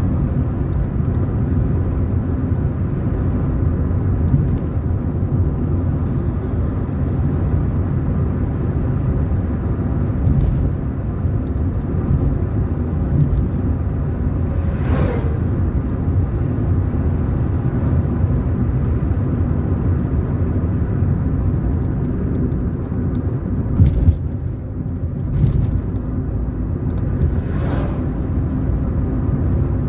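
A car driving along a road, with steady engine and tyre rumble. A few brief louder whooshes or knocks break through, one about halfway through and a couple near the end.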